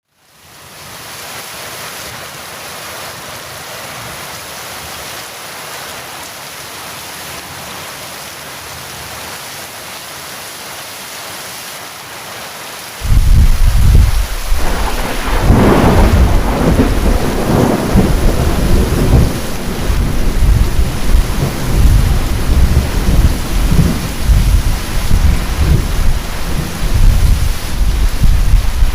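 Heavy rain falling steadily, fading in at the start. About halfway through a loud thunderclap breaks in suddenly, with a sharp crack a couple of seconds later, and rolls on as deep rumbling thunder over the rain.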